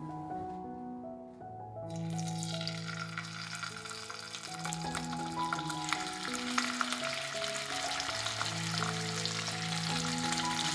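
Raw chicken wings sizzling and crackling as they are laid into hot oil in a frying pan; the sizzle starts about two seconds in and grows louder as more wings go in.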